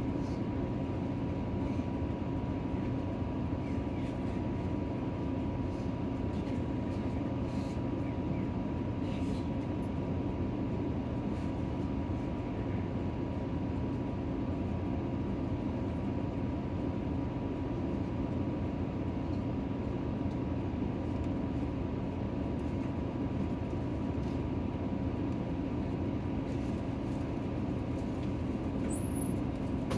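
Nissan Diesel city bus under way, heard from inside the cabin: a steady engine and road noise with a faint high whine.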